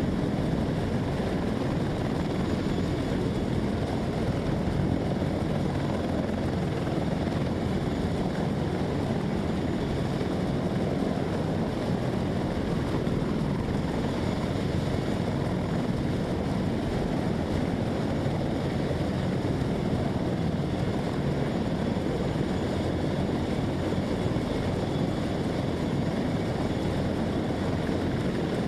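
Helicopter running steadily: a continuous, unbroken engine and rotor noise.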